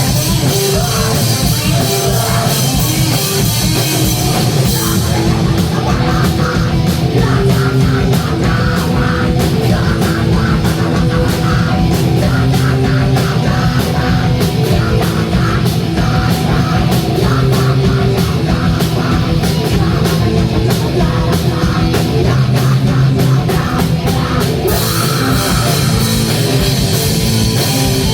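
A live punk rock band playing loud, with drum kit and guitars. The arrangement shifts about five seconds in, and again near the end.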